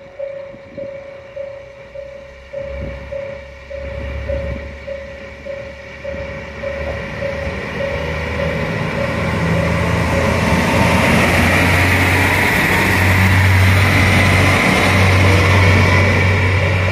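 Railway level-crossing bell ringing at about two strokes a second, while a diesel train approaches and grows loud from about halfway, its engine running with a steady low drone under the rail noise.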